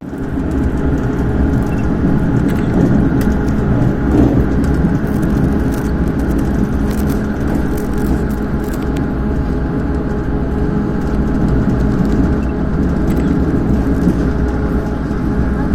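KiHa 283 series diesel railcar heard from inside while running: a steady diesel engine drone over the rumble of wheels on rail, with scattered light clicks.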